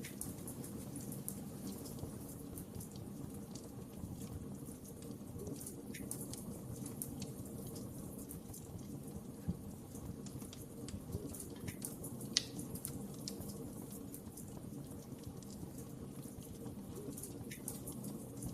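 Wood fire burning, with a steady low rush of flames and scattered crackles and pops; one sharper pop comes about twelve seconds in.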